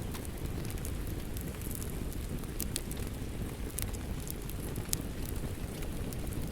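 Wood fire crackling, with scattered sharp pops at irregular moments over a steady low rumble, mixed with the even hiss of falling rain.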